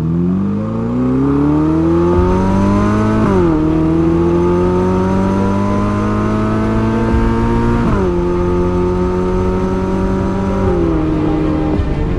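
Ferrari SF90 Spider's twin-turbo V8 accelerating through the gears. The engine note climbs, drops sharply at upshifts about three seconds in and about eight seconds in, then drops slightly once more near the end and holds steady.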